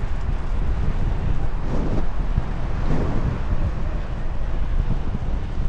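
Wind buffeting the microphone of a bicycle rider moving at speed, a steady low rumble with street noise underneath.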